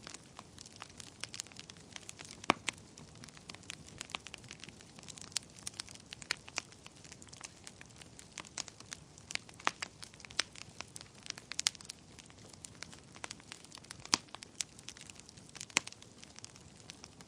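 Fire burning in a fireplace, crackling steadily with irregular sharp pops over a soft hiss, a couple of pops standing out louder.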